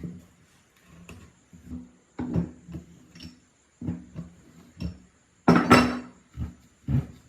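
Irregular knocks and clatter of metal parts being handled and struck during work on an old two-stroke water pump, with a louder double knock about five and a half seconds in.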